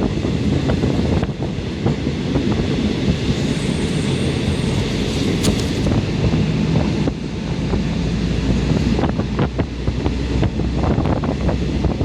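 Thai State Railway passenger train running, heard from inside the carriage by the window: wind rushing over the microphone over a steady rumble, and wheels knocking on the track, most often near the end. A high hiss with a faint whine swells in the middle.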